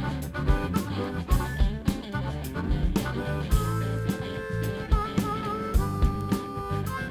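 Blues-rock band playing an instrumental passage: drums keep a steady beat under guitar and held lead notes, one of them wavering about five seconds in.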